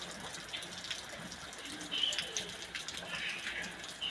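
Rain falling at night: a steady hiss with the patter of many drops striking close by.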